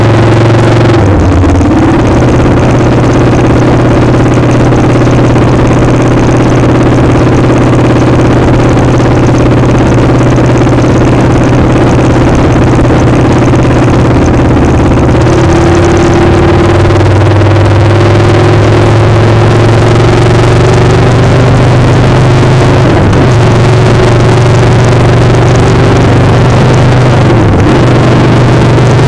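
Motorcycle engine running while riding, its pitch stepping up and down several times as the speed changes, over a constant loud rush of wind on the microphone.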